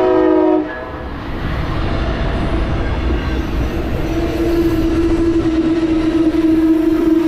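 A passenger train led by an ALC-42 locomotive. The horn chord cuts off just under a second in, then the train rumbles past loudly and steadily. A single steady tone comes in about halfway through and grows louder.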